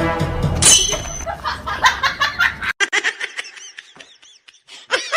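Background music ends within the first second, followed by high-pitched laughter in rapid short bursts, several a second.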